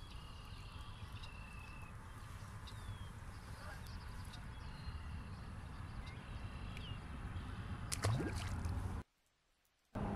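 Wild birds calling repeatedly, short level high whistled notes, over a steady low rumble. About eight seconds in comes one brief loud rising whoosh, then the sound drops out completely for about a second.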